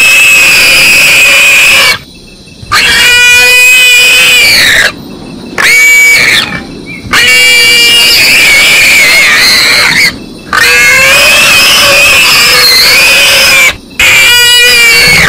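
Kethi Rakshak bioacoustic animal repeller playing recorded animal cries through its loudspeaker: a run of loud, high-pitched wailing calls that bend in pitch, broken by several brief pauses.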